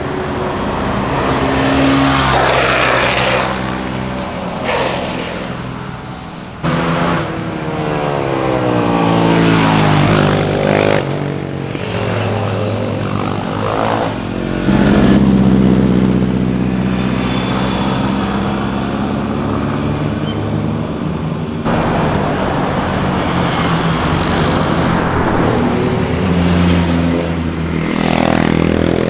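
Sport motorcycles passing one after another, their engines revving up and down as they ride through a corner, the pitch rising and falling with each pass. The sound changes abruptly about a quarter of the way in and again about three quarters in.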